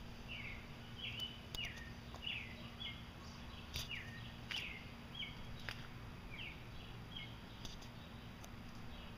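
A bird chirping over and over, short notes that drop in pitch, roughly one or two a second, over a steady low background rumble.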